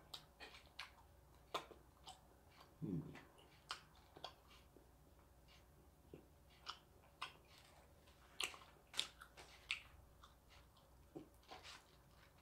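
Close-up mouth sounds of biting and chewing a sheet of seasoned dried squid snack: soft, scattered clicks and smacks, with the loudest cluster about eight to ten seconds in.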